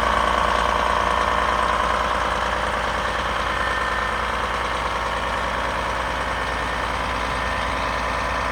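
2012 Scania R440 truck's six-cylinder diesel engine idling steadily, getting slightly quieter after about two seconds.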